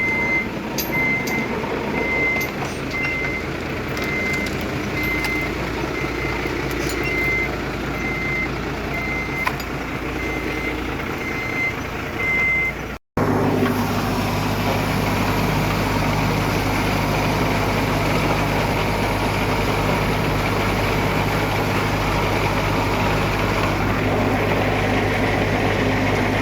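Dump truck backing up, its reversing alarm beeping at a steady pace over the diesel engine. About halfway through, the sound breaks off abruptly and gives way to a heavy diesel engine running steadily with a deep hum.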